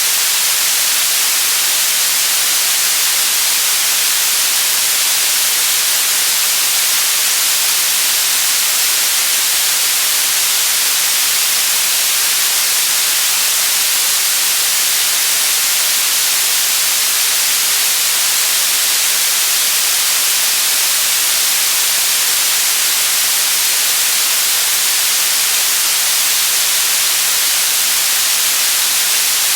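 White noise: an even, unchanging hiss at a constant loud level.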